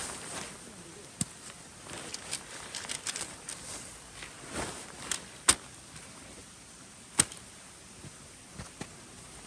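Scattered sharp clicks and knocks, as of objects being handled, two of them much louder about five and a half and seven seconds in, over a steady hiss.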